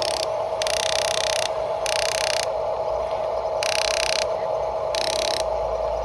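Small electric gear motors of a radio-controlled construction model whirring and grinding in five short bursts, over a steady whine.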